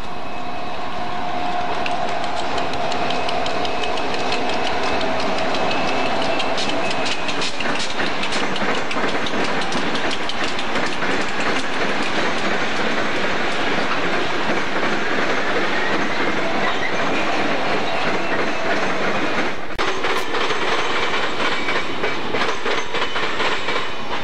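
Union Pacific diesel locomotives passing close with a train of hopper cars. Their engine drone carries a steady whine that drops slightly in pitch as they go by, followed by the rhythmic clickety-clack of the car wheels over the rail joints.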